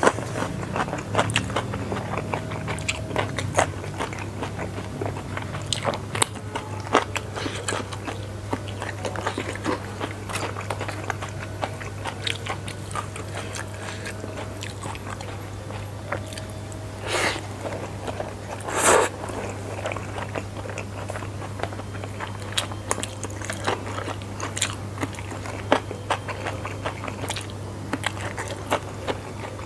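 Close-miked eating of spicy fried flat rice noodles: steady wet chewing with many small mouth clicks and crunchy bites, a couple of louder bites a little past halfway. A steady low hum runs underneath.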